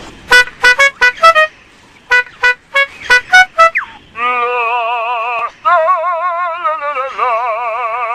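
Male superb lyrebird mimicking an electronic car alarm: a run of short, sharp beeps, then a continuous warbling siren that switches its wobble pattern twice.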